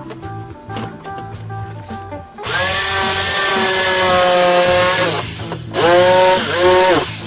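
Handheld power tool run in two bursts, the first about two and a half seconds and the second shorter, its motor whine dropping in pitch as it winds down at the end of each. Soft guitar music plays underneath before the tool starts.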